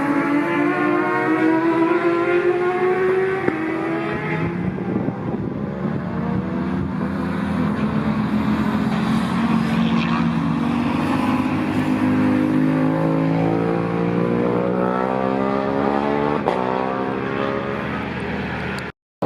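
Racing motorcycle engines running hard on track, their pitch climbing several times as the bikes accelerate through the gears. The sound cuts out abruptly for a moment near the end.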